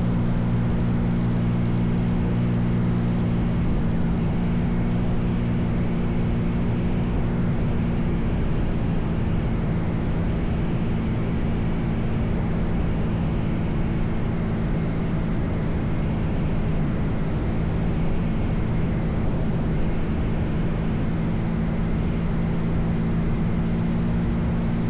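Cessna 182's piston engine and propeller droning steadily in cruise flight, an even hum that holds the same pitch and level throughout.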